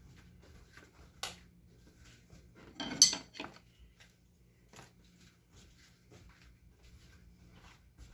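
Sharp clicks and a short clatter of hard objects knocking together about three seconds in, with one earlier click and scattered faint ticks over a low steady hum.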